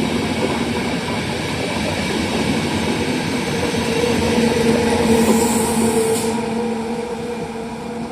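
A train passing on the line. The running noise and a steady hum build to their loudest about five seconds in, with a brief high hiss, then begin to fade.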